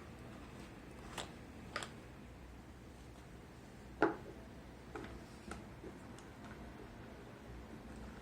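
Scattered clicks and taps of small hard parts being handled during a disassembly, with one louder knock about four seconds in.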